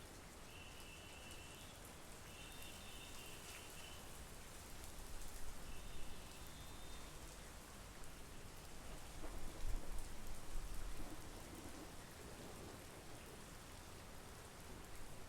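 Steady monsoon rain falling over trees and a lake, an even hiss throughout. A few short high-pitched chirps sound in the first half, and twice the level swells with a low rumble, about five and ten seconds in.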